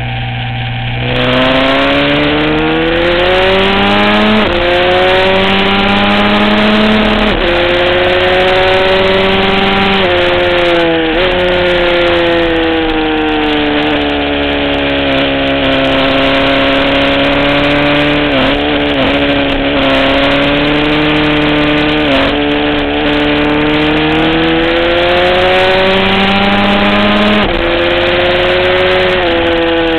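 Aprilia SXV V-twin supermoto engine at race pace, heard close on the bike: the pitch climbs under acceleration and drops sharply at each gear change, with a run of quick dips as it shifts down for corners.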